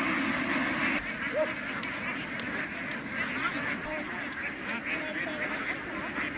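A large flock of domestic ducks quacking continuously, with many calls overlapping into one steady chatter.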